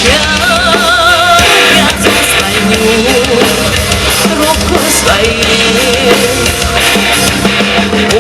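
Folk-metal band playing an instrumental passage: drum kit and heavy guitars under a lead melody line with wide vibrato.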